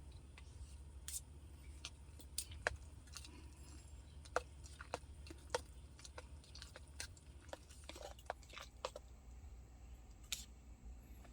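A string of small, sharp, irregular clicks and taps, a few loud ones among many faint ones, over a faint low steady rumble.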